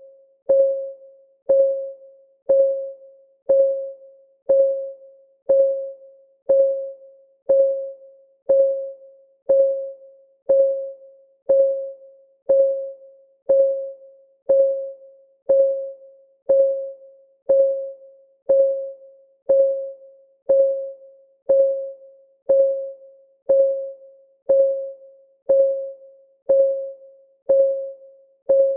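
Clock ticking sound effect of a countdown timer, ticking once a second. Each tick is a sharp click with a brief, quickly fading ringing tone.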